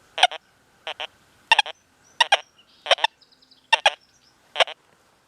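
Metal detector in its Sensitive FT program giving repeated target tones as the coil sweeps back and forth over a test nickel: about seven short double beeps, one every ¾ second or so.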